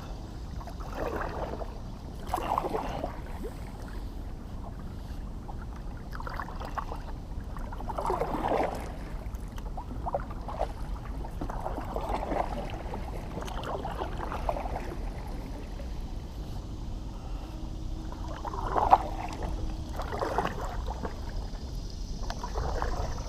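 Kayak paddle dipping and splashing in calm water in uneven strokes every second or two, over a low steady rumble.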